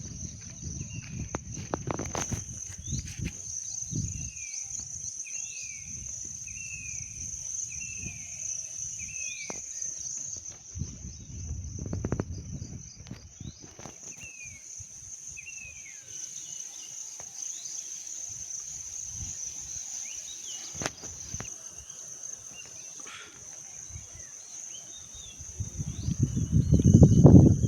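Rural ambience dominated by a steady, high insect drone of crickets or cicadas. Through the first half a series of short descending chirps repeats about twice a second. Low rumbles, loudest near the end, sit underneath.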